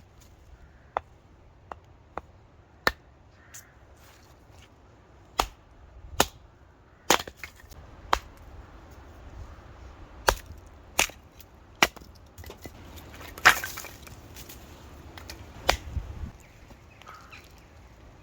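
Firewood being chopped or split for a campfire: sharp wooden knocks at irregular intervals, roughly a second apart, with the heaviest blow about two-thirds of the way through.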